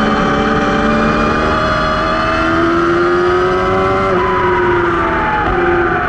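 Racing motorcycle engine pulling hard on track, its note climbing steadily for about four seconds, then falling in steps as the rider rolls off and changes down, over constant rushing wind and tyre noise.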